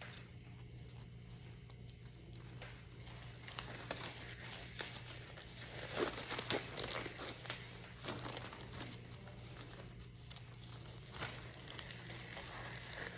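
Plastic and paper medical supply packaging crinkling and tearing as it is opened and handled, with scattered small clicks, busiest about six to seven and a half seconds in. A steady low hum runs underneath.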